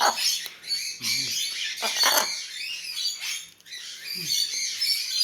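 Macaw squawking and chattering in a run of harsh, high calls, loudest near the start and about two seconds in.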